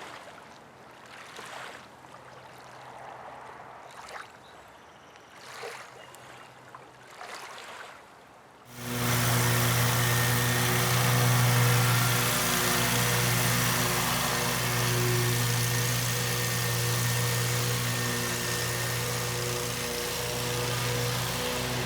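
A vehicle engine running steadily with road and wind noise while driving. It starts abruptly about a third of the way in, after a stretch of faint, scattered sounds.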